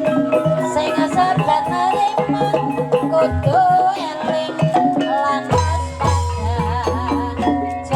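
Banyumasan gamelan music accompanying an ebeg dance: struck xylophone-like keys and percussion under a wavering melodic line.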